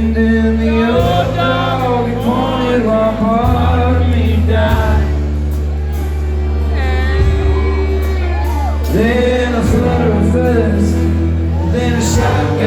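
Live country band performing a song with a male lead vocal over held bass notes, guitars and cymbal hits.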